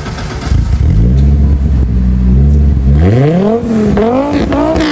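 A 1991 Audi 90 20-valve Quattro, swapped to a VW 2.5-litre 07K five-cylinder on a standalone ECU, idling steadily, then revved up twice in quick succession near the end.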